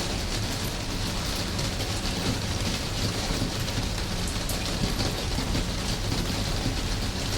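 Steady rain, a dense even hiss with a low rumble underneath that does not let up.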